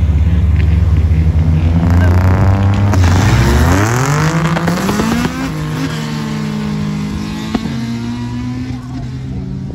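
Drag cars' engines held at high revs on the start line, then launching: the engine note climbs steeply about four seconds in as they accelerate away. It settles into a quieter, steadier drone as they go down the strip.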